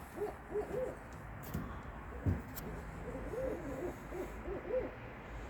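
Runs of short, arched hooting calls from an unidentified animal, about three a second, in two bursts, the second starting about three seconds in. A single low thump sounds a little after two seconds in.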